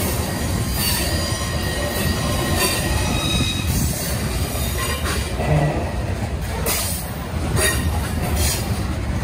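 Covered hopper cars of a long freight grain train rolling past: a steady rumble of steel wheels on rail, with faint high wheel-squeal tones now and then.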